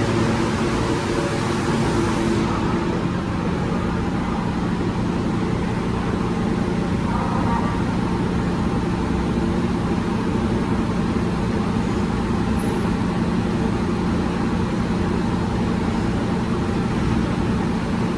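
New York City subway train on the L line, running with a steady electrical hum and rumble made of several low tones, its high hiss easing off about two seconds in.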